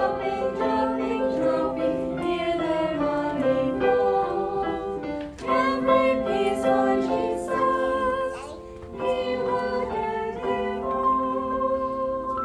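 Children's Sabbath school offering song sung by voices with instrumental accompaniment, a steady melody of held notes.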